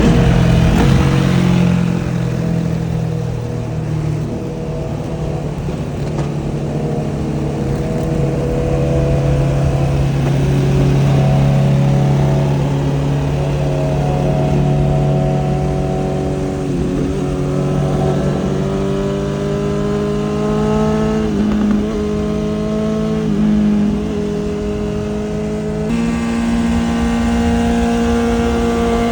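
Superbike engine running through a titanium full exhaust at highway speed: a steady note that slowly rises and dips with the throttle, with a sudden step up in pitch near the end.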